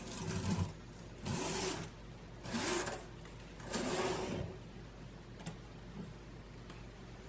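Four scraping strokes about a second apart, each with a faint wavering squeak: the overlapping stainless leaves of a folding steamer basket sliding against each other as it is worked open and shut.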